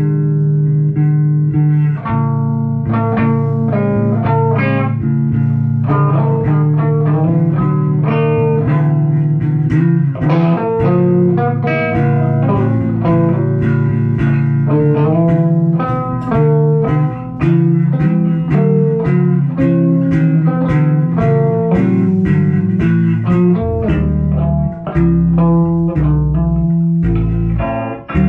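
Guitar playing a busy line of quick plucked notes over a bass guitar, with deeper bass notes coming in near the end.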